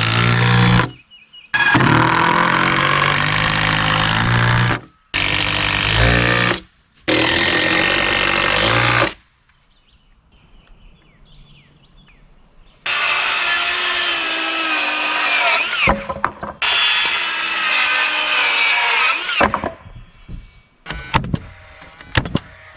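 Power tools running in a series of short stretches that start and stop abruptly, with a quieter gap in the middle and scattered short noises near the end.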